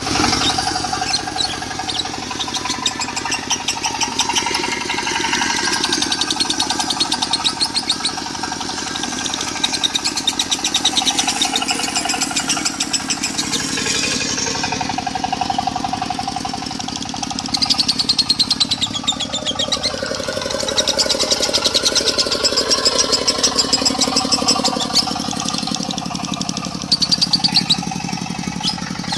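Lovebird singing a long, rapid chattering 'konslet' song in several stretches, over a diesel engine running steadily underneath.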